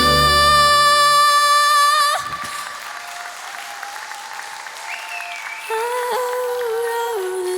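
A young girl's voice holds a long final note over backing music, which ends about two seconds in. Audience applause follows, and soft music comes back in under it near the end.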